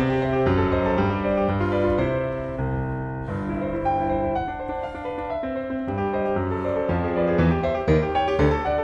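Background piano music: a calm melody of many changing notes over a steady accompaniment.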